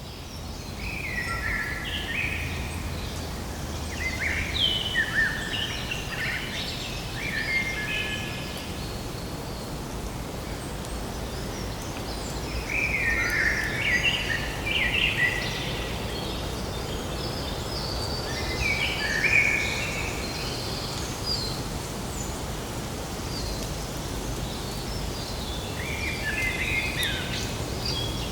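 Several birds chirping and calling in bouts of chattering, over a steady background hum.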